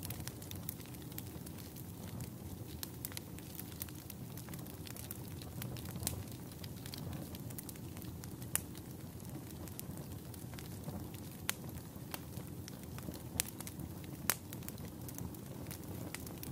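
Campfire burning: a steady low rush of flames with irregular sharp crackles and pops of burning wood, a few louder pops scattered through.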